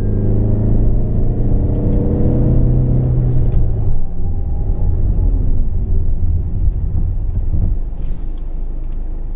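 Tata Altroz's 1.5-litre four-cylinder turbo-diesel engine pulling under acceleration, its note rising steadily for about four seconds. It then drops away suddenly to a lower rumble of engine and road noise.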